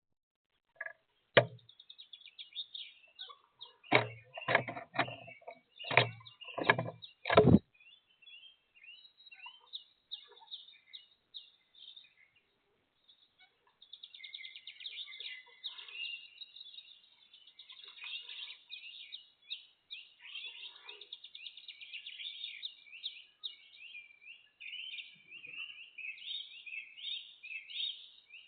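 Several loud, sharp knocks, about seven of them in the first eight seconds, then small wild birds chirping and trilling almost without a break through the second half.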